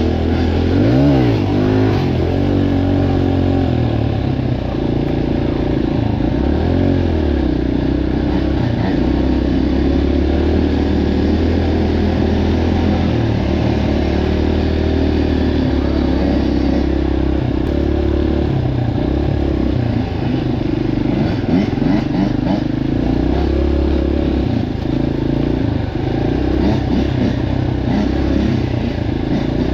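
Several dirt bike engines running together, their pitches rising and falling as they rev and ease off.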